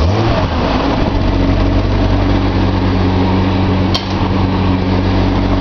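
Fuel-injected Nissan L28 straight-six with a Maxima cylinder head on an engine test stand, settling back from a quick throttle blip at the start and then idling steadily while still warming up. A single sharp click about four seconds in.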